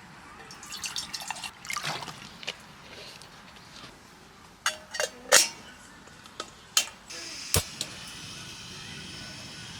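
Cookware and utensils clinking and knocking in a series of sharp strokes. A steady hiss sets in about seven seconds in.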